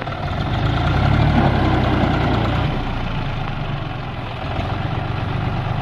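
Heavy diesel engine running, rising in level about half a second in and easing back after a couple of seconds, as if put under load and then let off.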